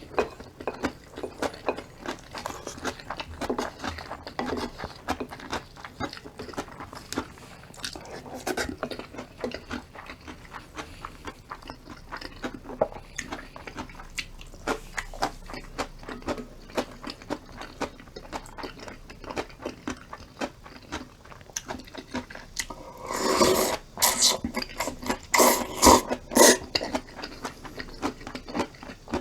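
Close-up eating sounds: a person chewing crunchy food, with many small clicks and crunches. Near the end come a few louder, noisier bursts.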